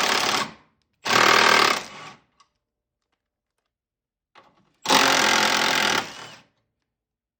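Impact wrench hammering in three bursts of about a second each, each trailing off as the tool stops: the strut top-mount nuts and bolt being spun off.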